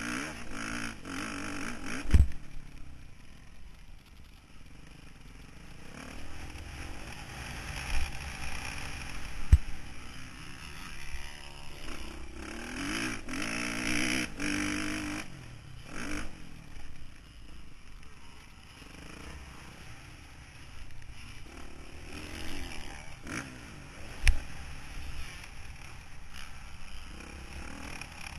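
Motocross motorcycle engine revving up and down as the bike is ridden round the track, heard through a camera mounted on board, with several sharp thumps along the way.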